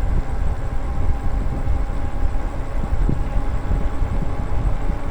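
Wind and road noise while riding an e-bike: a steady, uneven low rumble on the microphone with the faint hum of the bike running along.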